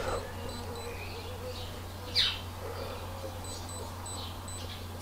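Birds chirping in the background, with short calls and one louder falling call about two seconds in, over a steady low hum.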